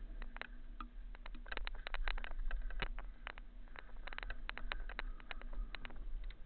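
Bike clattering over a rough rocky trail: a dense run of irregular sharp rattles and knocks from the bike and the camera mount over a low rumble.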